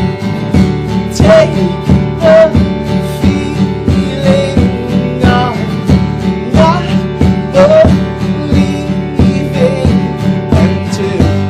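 Live band playing a song: strummed acoustic guitar and a steady beat, with a melody line over the chords.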